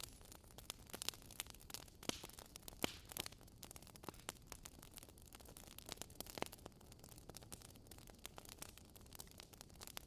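Wood fire in a fireplace crackling, with irregular sharp pops and snaps over a soft low hiss.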